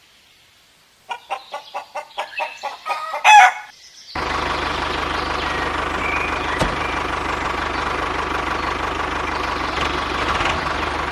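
A run of short clucking calls like a chicken's, ending in a louder call a little after three seconds in. From about four seconds in, a steady mechanical running sound like a small engine idling.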